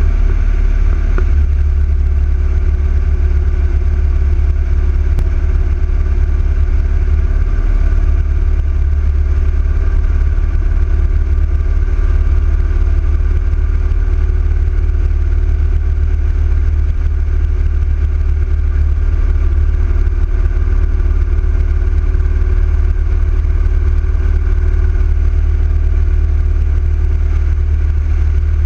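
Yamaha XV1900 V-twin, built up as a 120-cubic-inch big-bore motor, running steadily with a deep, unchanging rumble while the motorcycle cruises at an even speed.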